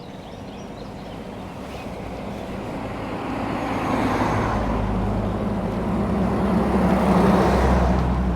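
A car driving up on the road and passing close by, its tyre noise and engine hum growing louder over several seconds and loudest near the end.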